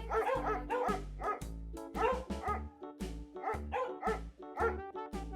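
A dog barking over and over in short barks, about two or three a second, over background music with a steady beat.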